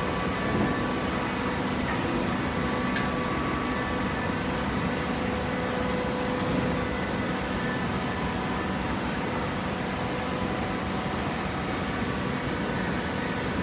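Hydraulic baler's electric motor and pump running steadily, giving a constant hum with a faint whine over it and a light knock or two.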